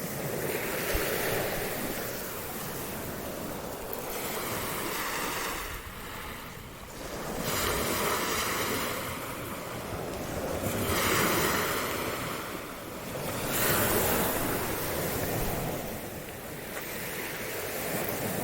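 Waves washing onto a beach, rising and falling every few seconds, with wind blowing on the microphone.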